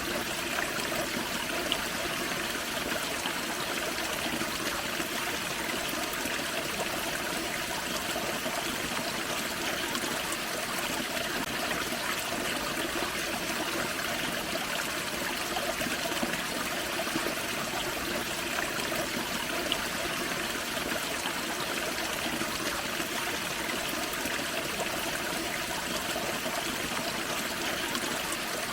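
Small forest waterfall splashing into a creek, a steady rushing and trickling of water with small splashes.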